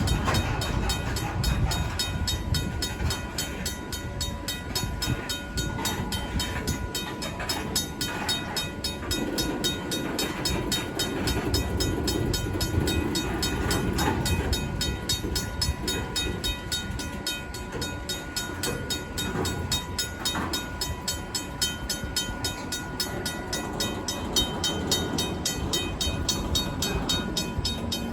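Freight cars of a long Union Pacific local rolling over a grade crossing, wheels clattering and rumbling, while the crossing's RACO mechanical bell rings on in fast, even strokes.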